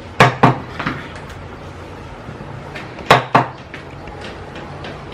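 Sharp knocks and taps of hard pieces on a tabletop, coming in quick pairs: about three near the start and two more about three seconds in, over a steady hum.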